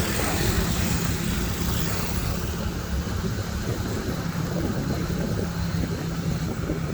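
A motor vehicle's engine running steadily with a continuous rush of road and wind noise.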